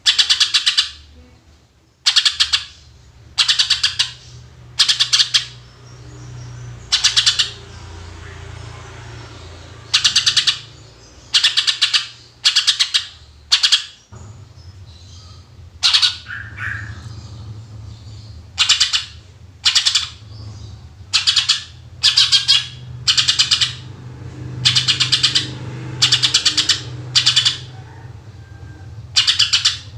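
Greater green leafbird (cucak ijo) singing in short, loud bursts of rapid buzzy notes, its 'tembakan' shots, repeated about every second or two with brief gaps, over a low steady hum.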